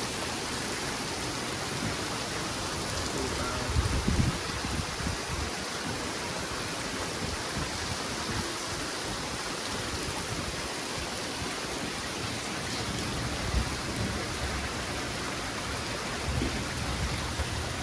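Heavy rain pouring down in a steady hiss, with brief low rumbles about four seconds in and again near the end.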